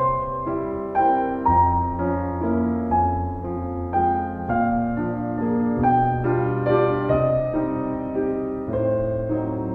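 Background piano music: a gentle melody of single notes, changing about every half second, over held bass notes.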